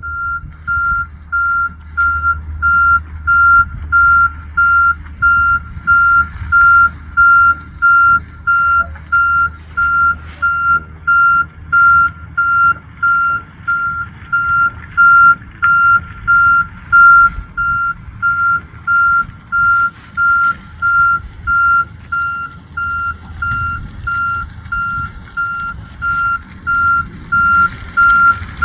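Truck's backup alarm beeping steadily, a single high tone repeating about once a second as the truck reverses, over the low rumble of its engine.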